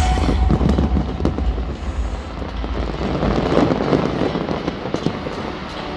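Fireworks display shells bursting and crackling in rapid succession: a dense, continuous crackle of many small reports.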